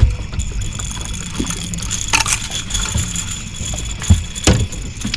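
Small fishing boat on the water: a steady low rumble with a few sharp knocks.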